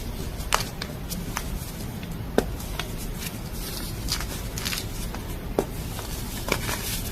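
Blocks of gym chalk being snapped and crushed: crisp crunches and snaps at irregular intervals, a few sharper cracks among softer crumbling.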